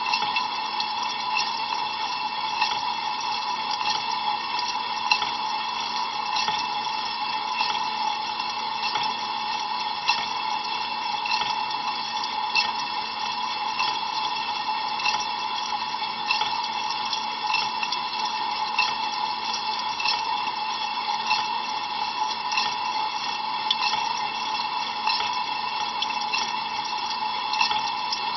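Water spraying and splashing inside an Ariston LV 46 A IX dishwasher during a cold-water rinse, heard from inside the tub. A steady rushing runs over a constant low hum, with many small ticks of drops striking.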